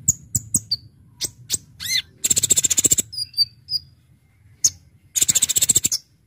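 Kolibri ninja (konin) sunbird singing: sharp, high chips and short whistled notes, broken twice by a dense, rapid-fire rattling trill lasting under a second, once a couple of seconds in and again near the end.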